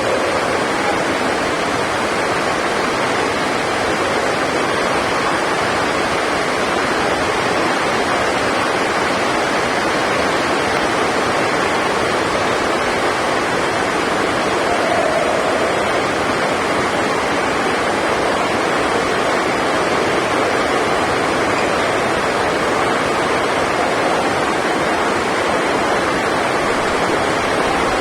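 Heavy rain, a steady loud hiss with no let-up.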